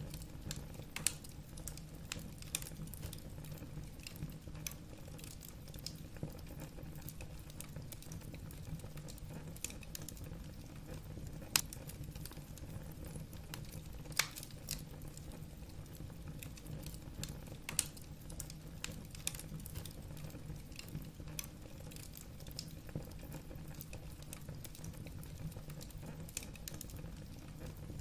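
Wood fire burning in a fireplace, the logs crackling with irregular pops and snaps, a few sharper ones standing out, over a steady low rumble.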